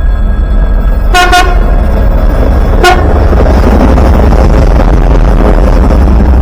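Train horn sounding a short blast about a second in and a brief toot near three seconds, over a loud low rumble. After that the noise of the passing train builds.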